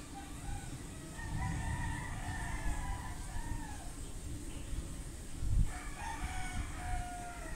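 Rooster crowing twice, the second crow ending on a long held note.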